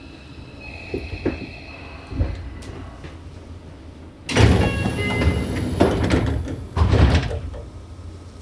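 Commuter train's passenger sliding doors closing while stopped at a station: a loud rush of sliding and knocking begins about four seconds in and ends about three seconds later with a final thud.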